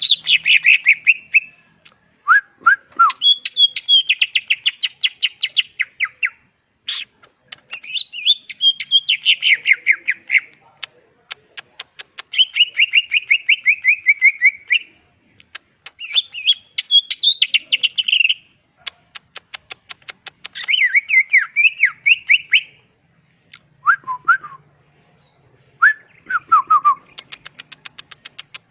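Leafbird (cucak ijo) song as a lure recording: phrases of rapid, repeated high whistled and chattering notes, each a couple of seconds long, with short pauses between them. A few lower, downward-slurred whistles come early on and near the end.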